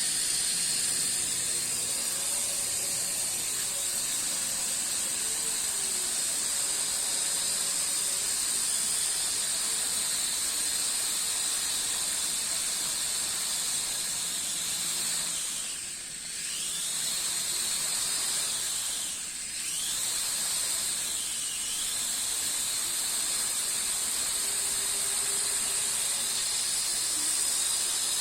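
A JJRC H33 mini quadcopter's four small motors and propellers running with a steady high whine. About halfway through, the whine drops away and swoops back up twice in quick succession as the throttle is cut and raised again.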